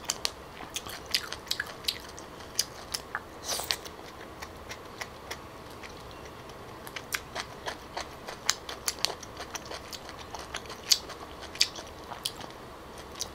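Close-miked chewing of chewy grilled clam meat: wet mouth clicks and smacks come irregularly as she chews.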